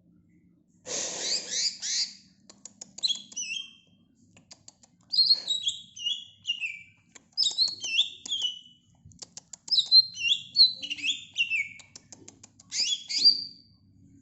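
Cucak ijo (green leafbird) singing in repeated short bursts of quick, falling chirps and whistles, each burst lasting about a second, with short pauses between.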